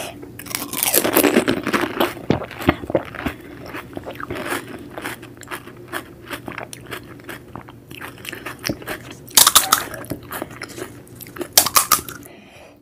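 Close-miked crunching and chewing of a whole pani puri: the crisp fried shell cracking in the mouth as it is chewed with its spiced water filling, loudest about a second in.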